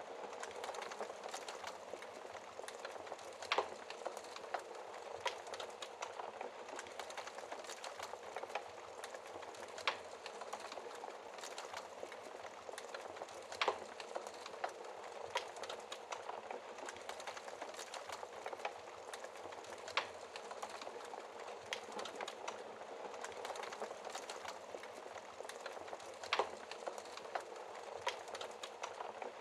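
Fireplace fire crackling: a steady soft hiss full of small crackles, with a handful of sharper, louder pops spread through it.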